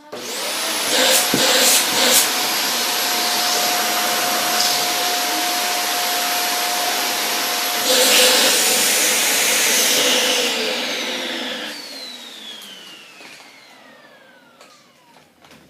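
Hoover WindTunnel bagless upright vacuum switched on: its motor spins up to a loud, steady run with a high whine, and there are a couple of clicks about a second in. After a louder stretch it is switched off, and the whine falls in pitch as the motor winds down over the last few seconds.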